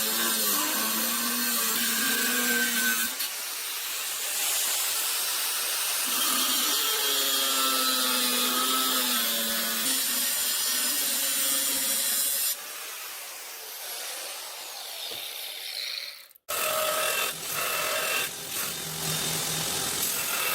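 Angle grinder cutting through a bar of 80CrV2 high-carbon steel, its motor note wavering as it bites. The sound changes abruptly a few times, about 3, 12.5 and 16.5 seconds in.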